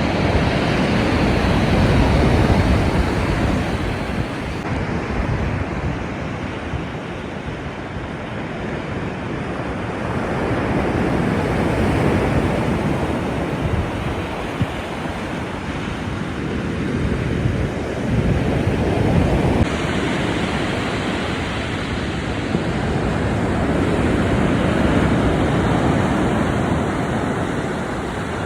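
Black Sea surf washing in on the shore in slow surges that rise and fall every several seconds, with wind buffeting the microphone.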